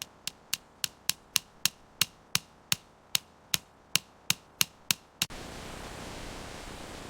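A hammer striking in quick, even blows, about three a second, some seventeen sharp knocks in all. About five seconds in it stops abruptly, and a steady hiss takes over.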